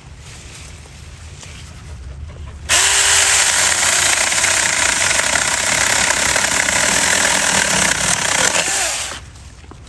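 Saker mini battery chainsaw switched on about three seconds in, its motor winding up and the chain running loud and even for about six seconds as it cuts fig branches, then winding down near the end.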